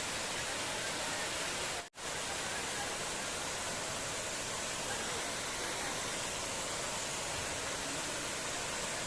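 Steady rush of a waterfall, water pouring down from about 40 feet, an even hiss across all pitches. It drops out for an instant about two seconds in, then carries on unchanged.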